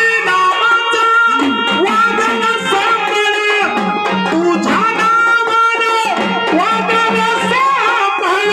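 Marathi folk music with a dholki drum keeping a steady beat under held and gliding melody lines.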